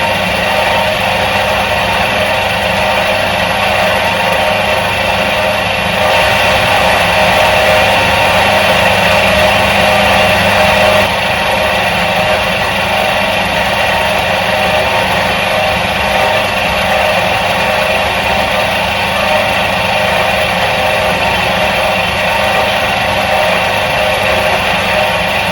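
Electric motor of a 1977 Soviet washing machine running steadily with a constant hum. It gets a little louder for a few seconds starting about six seconds in, then settles back.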